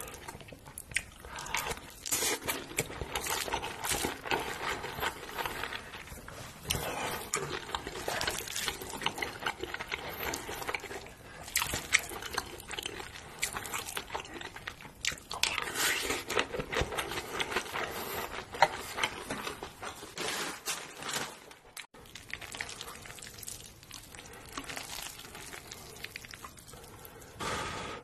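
Close-miked mouth sounds of eating a mouthful of mixed rice: wet chewing and smacking, with many small clicks and squelches. There is a sudden break about twenty-two seconds in, after which the chewing goes on more quietly.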